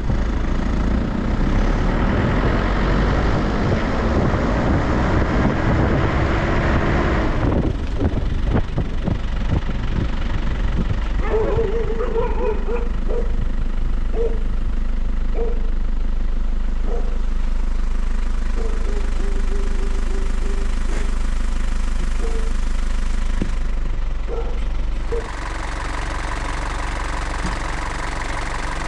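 Motor vehicle engine running as it drives, with a strong low hum throughout; louder over the first seven seconds, dropping in level near the end.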